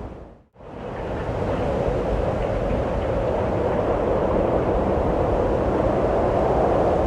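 Steady rushing wind that fades out almost to silence about half a second in, then swells back within a second and blows on evenly.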